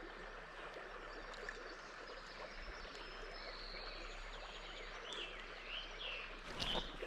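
Outdoor river ambience: a faint, steady hiss of flowing water with scattered bird chirps, and a brief knock near the end.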